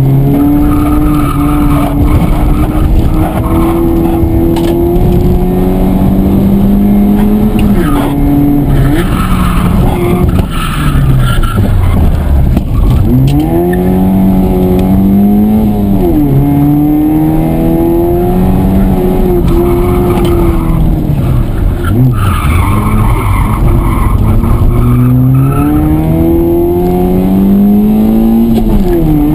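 Honda Civic engine heard from inside the cabin, driven hard: it rises in pitch as it climbs through the gears, drops sharply at each shift, and dips low and swoops back up several times as the throttle is lifted and reapplied.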